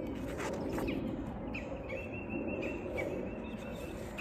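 Songbird chirping: a run of quick, evenly repeated high notes starting about a second and a half in. A couple of brief paper rustles come from a picture book's pages being opened, over steady outdoor background noise.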